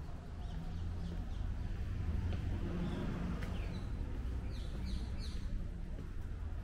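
Birds chirping in short, scattered notes, with a quick cluster of chirps about five seconds in, over a steady low rumble.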